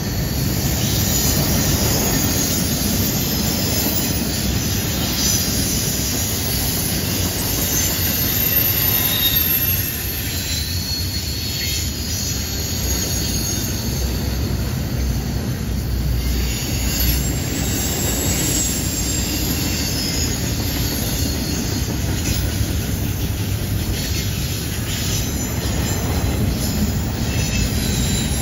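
Double-stack intermodal freight cars rolling past on a curve: a steady rumble of steel wheels on the rails, with high wheel-flange squeal coming and going.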